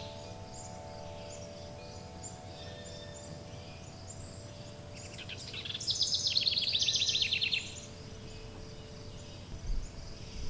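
A songbird sings one loud, fast trilled phrase of about two seconds, starting about five seconds in, over faint chirps from other birds. Underneath, several steady chime tones ring and slowly fade away, and a few low thumps come near the end.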